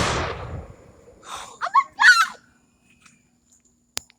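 A loud firework shell bang whose echo fades away over about a second, followed by a brief startled vocal exclamation and a sharp click near the end.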